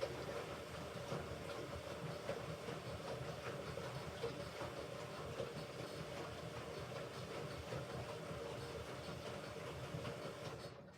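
Hoover Ecologic Computer Washer 1300 running during its rinse programme: a steady mechanical hum with small irregular clicks and water sounds, which starts suddenly and cuts off about ten seconds later.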